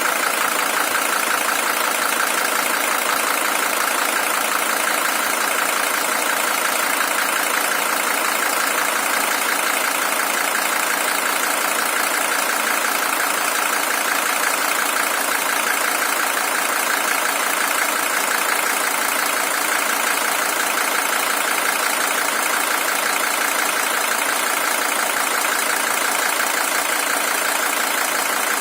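Mercedes-Benz W123 300TD's OM617 five-cylinder diesel engine idling steadily.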